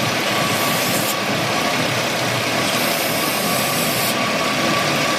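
Chevrolet Venture's 3.4-litre V6 idling steadily. The engine is running lean, with long-term fuel trim around 21 and a P0300 random-misfire code, which the mechanic suspects comes from an intake vacuum leak.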